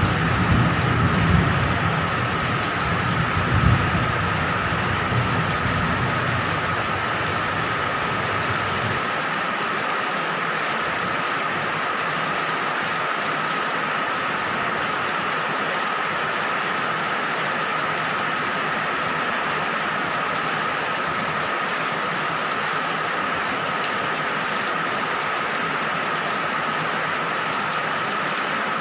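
Steady rain falling, an even hiss. A low rumble of thunder swells in the first few seconds and dies away about nine seconds in.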